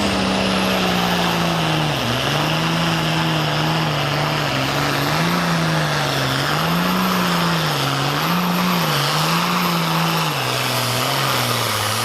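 Engine of a pulling tractor or truck running hard under load, its pitch dipping and rising every second or two, with a thin high whine above it.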